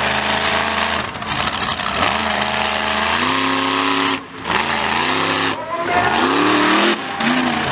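A high-powered vehicle engine revved hard over and over, its pitch climbing and falling several times as the throttle is opened and snapped shut, with a brief drop in sound about four seconds in.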